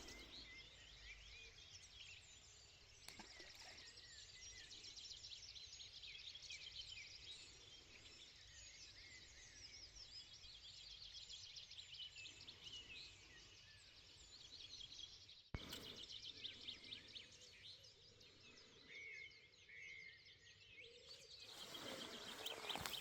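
Faint birdsong: several small birds singing and chirping at once, without a break. A single sharp click about two-thirds of the way through.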